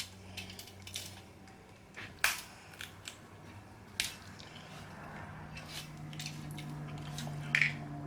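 Snow crab shells being cracked and snapped apart by hand: about half a dozen sharp cracks a second or two apart, the loudest about two and four seconds in.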